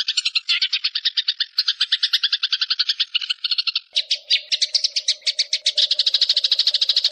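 A songbird's fast chattering trill, about a dozen short high notes a second, run on without a break. About four seconds in, the trill shifts higher and a steady lower tone joins it.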